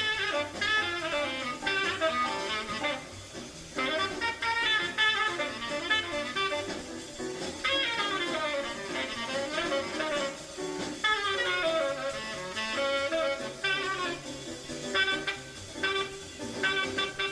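Jazz tenor saxophone improvising fast bebop runs in phrases broken by short pauses, with a small jazz band behind it.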